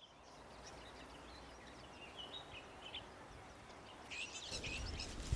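Faint outdoor ambience with small birds chirping: scattered short chirps, then a busier burst of chirping about four seconds in.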